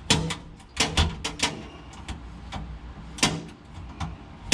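Irregular clicks and knocks of hand tools against parts, about half a dozen scattered sharp strikes, as a bolt is worked into place by feel.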